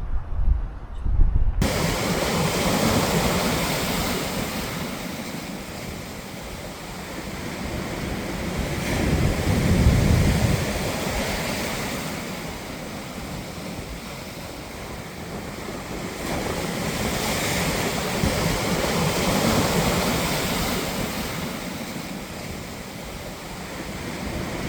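Sea surf washing onto a beach, a steady rush that swells and fades in slow surges several seconds apart. It comes in suddenly about a second and a half in.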